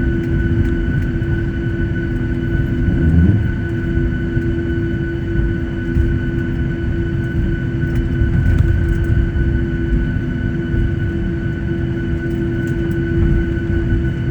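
Boeing 737-800 cabin noise while taxiing after landing: the CFM56 engines idle with a steady whine in several tones over a continuous low rumble.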